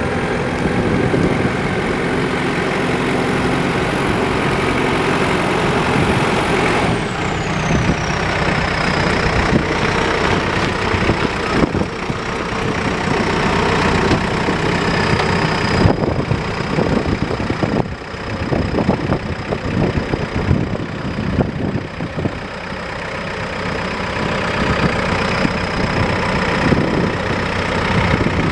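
JCB loader backhoe's diesel engine running steadily, with a thin high whine that drops in pitch about seven seconds in and then holds.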